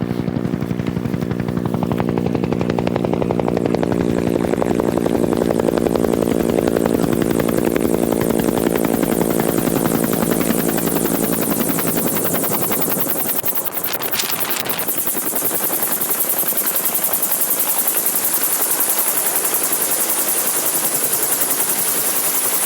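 Helicopter coming in: a strong, rapid rotor beat at first, which falls away after about twelve seconds as a high turbine whine and a rushing hiss take over, with a brief louder rush about two-thirds of the way through.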